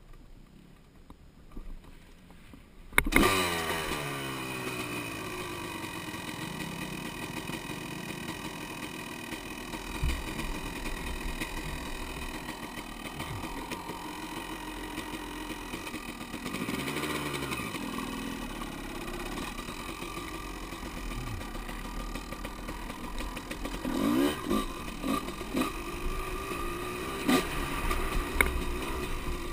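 An engine starts about three seconds in, its revs falling back from the start, then runs steadily at idle, with brief blips of revs midway and several more near the end.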